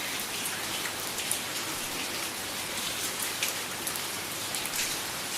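Steady rain falling, an even hiss with many scattered sharp drop ticks on top.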